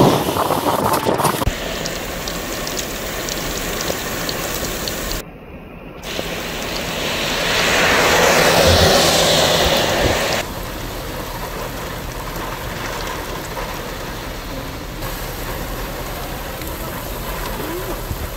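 Heavy rain pouring down with wind noise, and cars swishing along the flooded road through the spray. The noise swells and changes abruptly a few times.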